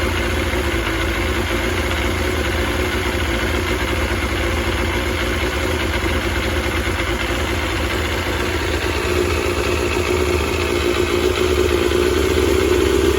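Kawasaki Balius 250 cc inline-four engine running steadily at idle on its freshly refitted carburettors, getting a little louder in the last few seconds.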